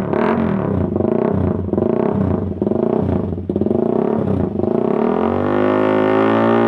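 Honda CBR150R K45 single-cylinder engine through an aftermarket Austin Racing-style exhaust, blipped repeatedly for about four seconds. From about five seconds in the throttle is held, giving a steady, slowly rising note.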